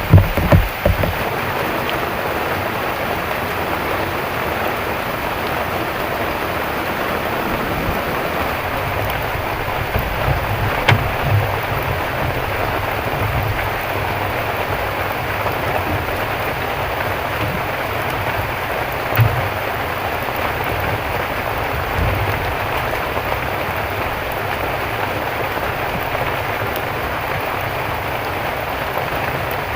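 Heavy rain falling steadily, an even hiss, with a few low thumps, loudest in the first second.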